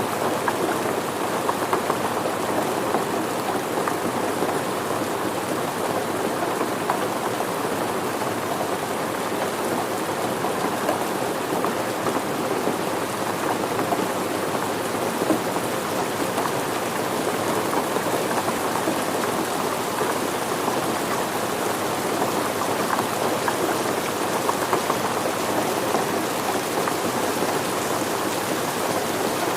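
Steady rain falling, with a continuous hiss of many small drops pattering on surfaces.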